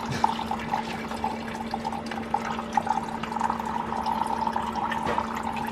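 Engine coolant pouring out of the Nissan S15 Silvia's radiator at the pulled lower radiator hose and splashing into a drain pan in a steady stream, with a steady low hum underneath.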